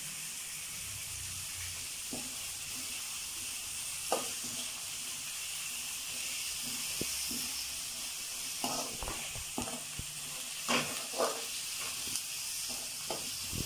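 Chopped onions and green chillies sizzling steadily in hot oil in a metal kadai, with the scrape and clink of a perforated metal ladle stirring them now and then, mostly in the second half.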